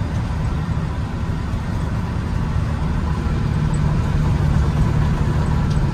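Peterbilt grain truck's diesel engine running steadily while driving, a low drone mixed with road noise.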